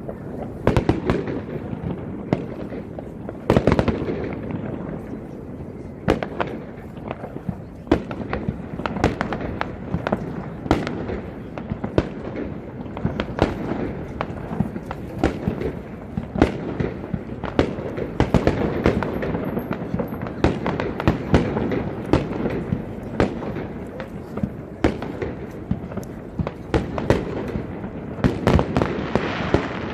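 Aerial fireworks display: a continuous barrage of shells bursting, with many sharp bangs and crackles over a steady rumble.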